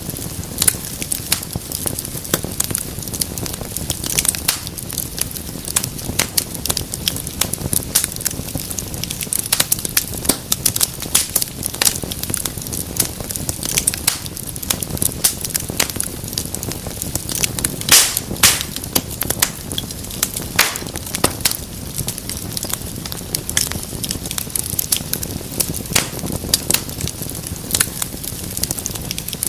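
Wood fire burning in a fireplace: dense, irregular crackling and popping over a low steady rumble of flame, with a few louder pops, the loudest about eighteen seconds in.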